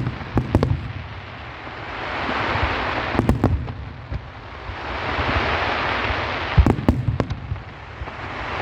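Fireworks display: three times, a rushing hiss swells and is followed by a quick cluster of sharp bangs, the shells going off every three seconds or so.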